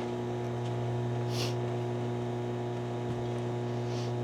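Electric AC vacuum pump running with a steady, even hum, pulling a vacuum on the car's air-conditioning system before it is charged.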